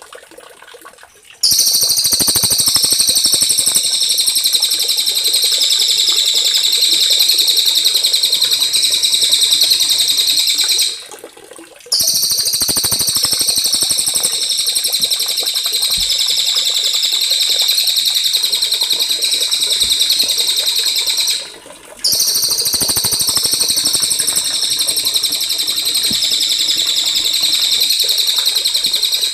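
Small songbird singing a continuous, high-pitched rolling trill, used as masteran (tutor song) for training songbirds such as the white-rumped shama. The song comes in three long runs, cut by brief pauses about eleven and twenty-one seconds in.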